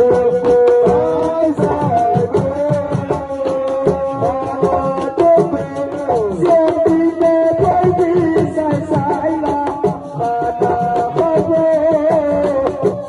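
Live Senegalese assiko-style music: a voice holding and sliding long notes over dense, fast hand-drum percussion.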